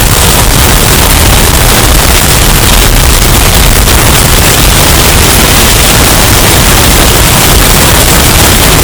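Hurricane storm sound effect, bass-boosted and overdriven: a steady, dense rush of noise with heavy bass, clipped into harsh distortion at near full volume.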